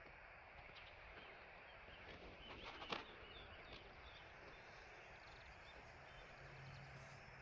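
Near silence: a faint steady hiss of outdoor ambience, broken by one sharp click or knock about three seconds in.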